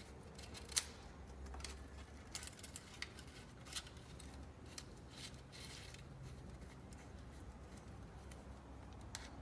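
Handling noise: scattered light clicks and taps, the sharpest about a second in, over a faint low hum.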